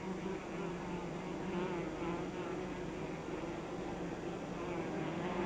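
A swarm of honeybees buzzing together in a steady, continuous drone as they build a nest in a cave.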